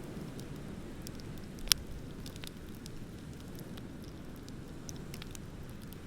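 Wood bonfire crackling with scattered small pops and one sharp loud pop about a second and a half in, over a low steady rumble.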